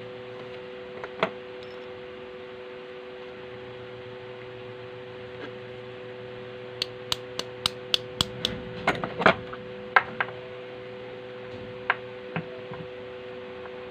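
A quick run of sharp taps and clicks, about three a second, starting about halfway through, then two more single taps, from tools and parts being handled during bench repair of a sewing machine. A steady low hum runs underneath.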